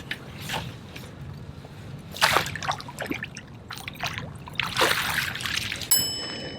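Water splashing as a hooked largemouth bass thrashes at the surface beside a kayak, with bursts of splashing about two seconds in and again about five seconds in.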